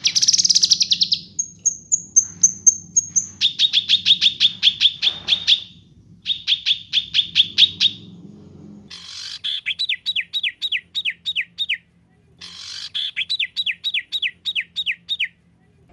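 Songbird singing in rapid-fire phrases: a buzzy burst at the start, a thin high trill, then quick runs of sharp repeated notes, and in the second half two runs of down-slurred whistled notes separated by short pauses.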